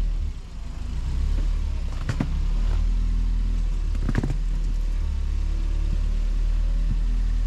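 ATV engine running steadily at low revs, with two sharp knocks about two and four seconds in.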